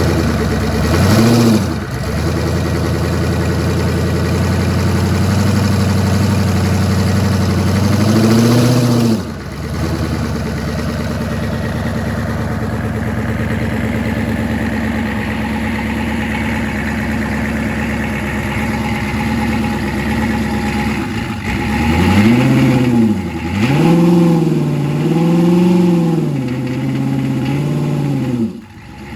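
An engine idling steadily and blipped up in short revs several times: once about a second in, again near eight seconds, and a quick run of revs near the end.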